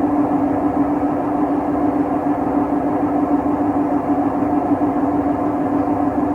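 Siemens WM14T490 front-loading washing machine running with a loud, steady drone and rumble from its drum, the sign of damaged drum bearings.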